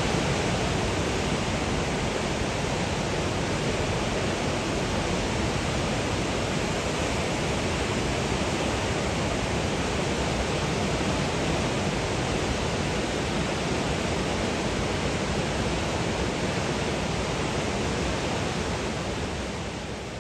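Fast-flowing water of the Niagara River rushing steadily, an even wash of sound that fades out near the end.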